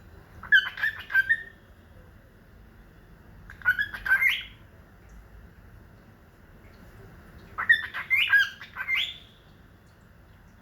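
Pet bird squawking and chirping at its reflection in a mirror, in three short bursts of rapid, quickly gliding calls.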